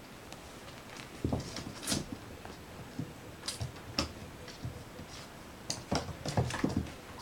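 Irregular thumps, knocks and rustles of cats tussling and rolling about with valerian-filled cushions.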